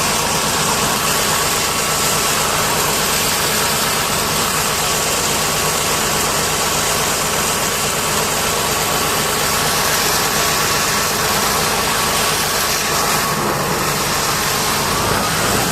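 An engine running steadily, with a constant hiss over it and a faint steady whine.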